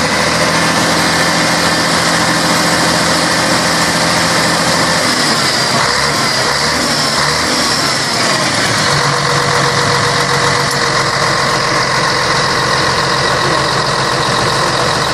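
Scania K113 bus's six-cylinder diesel engine running steadily. Midway its note shifts, with a falling sweep, then it settles into a steady sound again.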